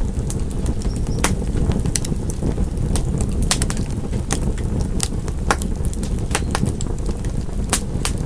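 Wood fire crackling: sharp, irregular pops and snaps, one or two a second, over a steady low rumble of the burning fire.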